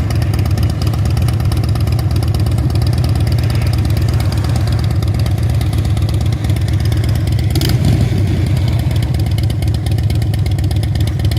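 Norfolk Southern manifest freight train rolling past, a steady low rumble with rapid clatter of wheels on the rails, and one brief sharp noise about eight seconds in.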